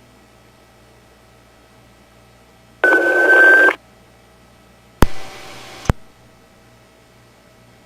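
Police radio channel with no one talking: about three seconds in a burst of radio noise carries a steady beep for just under a second, and about two seconds later the radio keys up with a click, passes a second of open-channel hiss and cuts off with a second click. A low hum and hiss of the channel lies underneath.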